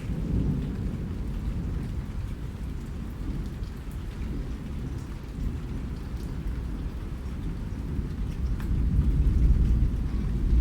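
Steady rain falling, with faint scattered drop ticks over a heavy low rumble that grows louder about nine seconds in.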